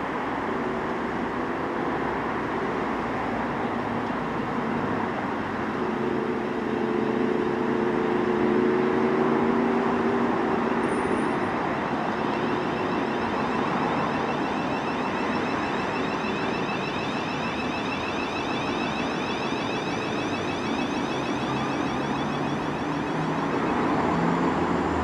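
Train running through the station: a steady rumble of wheels on track, with low humming tones in the first half and a thin high whine in the second half.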